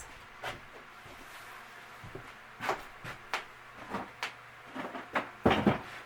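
A series of light knocks and clunks of wooden cabinet pieces being handled on a workbench, with a louder double knock near the end.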